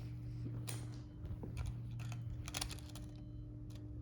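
A scatter of light, irregular clicks and taps over a steady low hum.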